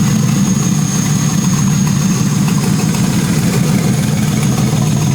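Twin-turbo 6.2-litre Ford V8 idling steadily, with a thin high whine over it.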